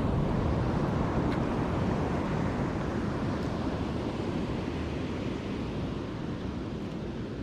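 Wind and choppy sea swell around a fishing kayak: a steady rushing noise, strongest in the first couple of seconds and easing slightly toward the end.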